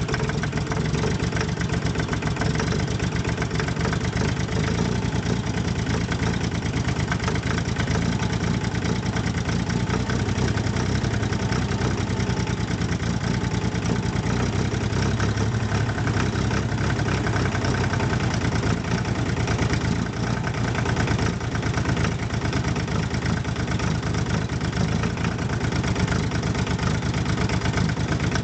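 Fendt Farmer 2 tractor's diesel engine idling steadily, cold, shortly after a start at −15 °C, with an even rapid knock of firing strokes.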